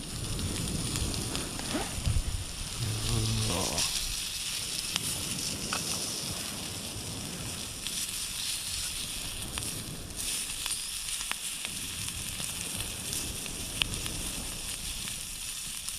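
Meat sizzling as it grills over a wood fire in a fire stand: a steady hiss with a few sharp crackles now and then.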